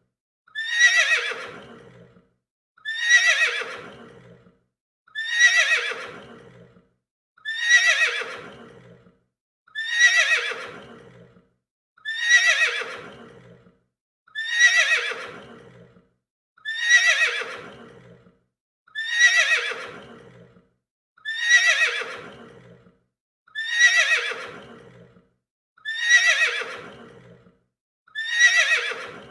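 Horse neighing: the same whinny repeated at even intervals a little over two seconds apart, about thirteen times. Each call starts loud and high and slides down in pitch as it trails away.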